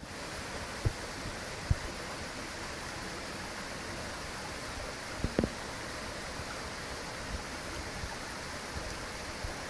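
Steady rush of water in Mill Gill beck at its waterfalls. Dull low thumps come about a second in, near two seconds, and twice just after five seconds.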